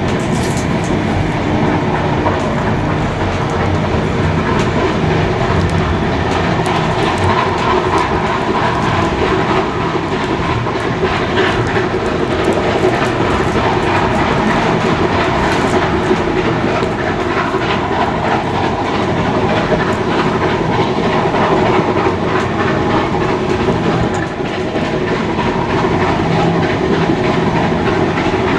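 Steam-hauled heritage passenger train running steadily along the line, its wheels clicking over the rail joints.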